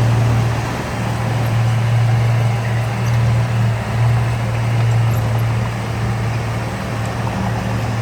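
Heavy diesel engine of construction machinery running steadily at an even pitch, a deep hum over a rumbling noise.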